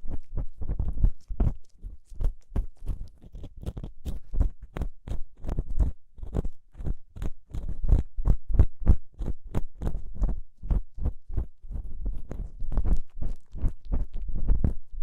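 Ear pick scratching and scraping in an ASMR microphone's ear in quick repeated strokes, about three a second, each with a dull rub close to the mic.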